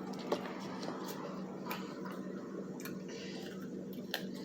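Someone eating crispy fried chicken: a handful of sharp, scattered clicks and crunches of chewing and biting, over a steady low hum.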